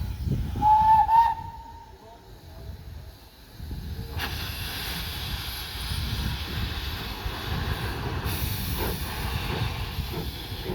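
Whistle of a 1909 Buffaud-Robatel 031T steam tank locomotive giving one short toot about a second in, then from about four seconds in a steady hiss of escaping steam over a low rumble.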